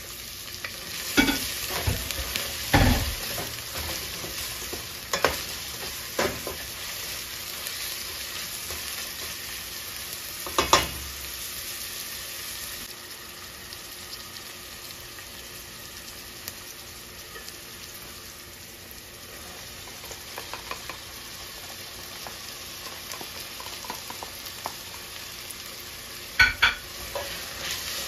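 Diced onion sizzling as it fries in a stainless steel pot, with a spatula stirring and scraping. Sharp knocks of the spatula against the pot and plate come a few times in the first seconds, again about ten seconds in, and a pair near the end.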